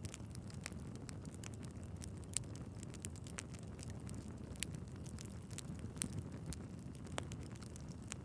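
Wood fire burning in a fireplace: a steady low rumble of flames with frequent sharp crackles and pops from the logs, one louder pop about two seconds in.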